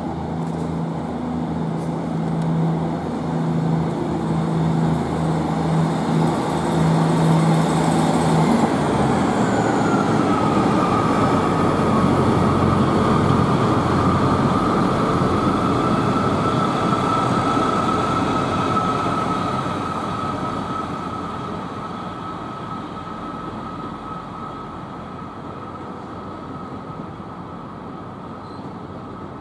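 Diesel multiple unit train: the engine runs with a steady low note for the first several seconds, then the train gets moving with a high whine that slides down in pitch and holds steady. The sound grows louder in the middle and fades as the train draws away.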